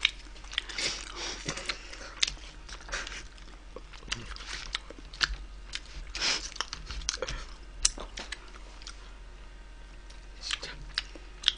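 Close-miked chewing and biting into wood-fire roasted chicken: irregular crunches and small wet clicks from the mouth.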